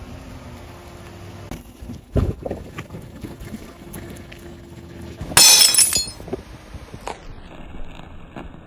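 Glass shattering and crunching as a car tyre crushes it, in one loud burst with bright ringing chinks about halfway through, after a dull thump about two seconds in.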